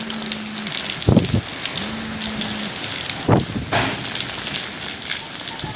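Heavy rain pouring steadily, with a few louder thuds about a second in and again past the middle.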